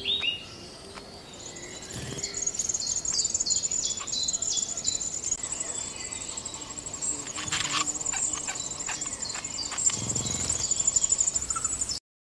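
Eurasian wryneck calling at its nest hole: a very high, rapid, pulsing trill runs on, with a series of about eight short descending notes in the first half. The sound cuts off suddenly near the end.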